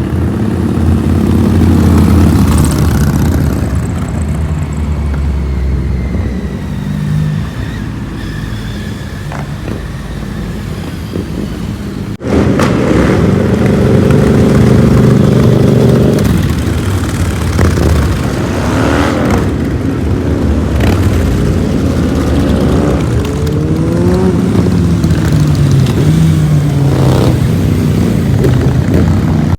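Motorcycle engines running loud, cut between two stretches about 12 seconds in. In the second half the revs rise and fall repeatedly as the bikes are revved and pull away.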